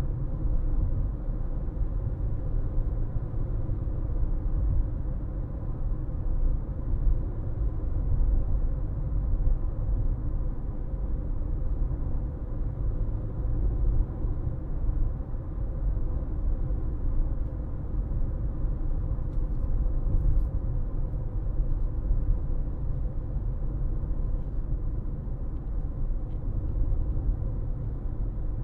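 Car driving along: a steady low rumble of road and engine noise, with a faint steady hum over it.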